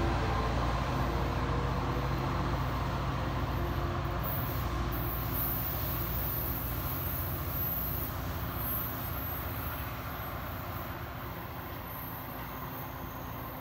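New Jersey Transit diesel passenger train pulling away. Its locomotive engine drone and wheel rumble fade steadily as it recedes into the distance.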